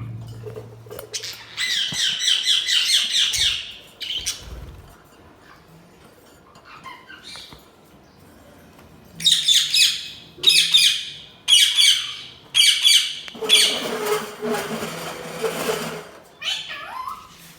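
Budgies chirping and squawking in bursts of rapid, scratchy chatter, with a quieter pause in the middle and a string of short repeated calls after it.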